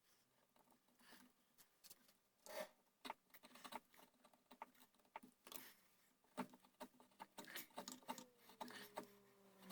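Hand tools working the wooden gunstock as the buttplate is inlet: faint, irregular ticks and short scrapes.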